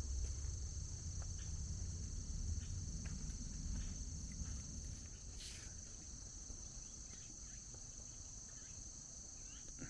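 Insects chirping in a steady, high-pitched chorus, with a low rumble that fades about halfway through and a few faint scattered clicks.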